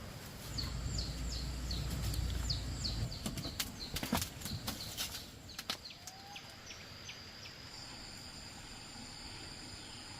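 A small bird chirping repeatedly in quick, short falling notes, with a few sharp knocks around the middle; from about six seconds a steady high insect drone takes over.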